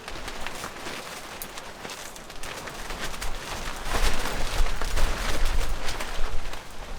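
Dense crackling and popping over a steady hiss, with wind buffeting the microphone as a low rumble that grows louder about four seconds in.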